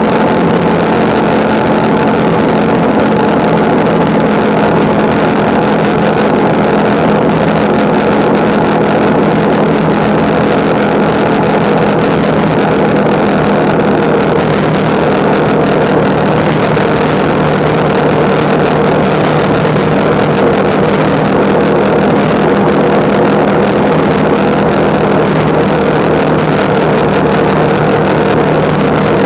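Motorcycle engine running at a steady cruising speed, a constant drone with no gear changes or revving, under a heavy rush of wind and road noise.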